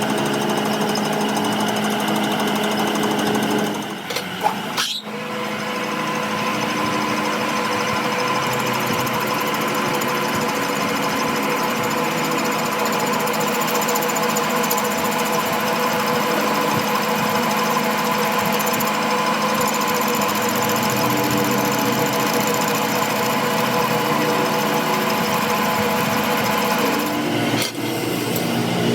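A motor-driven workshop machine tool running steadily with several steady tones. There is a short break with a click about four to five seconds in, and another brief dip near the end.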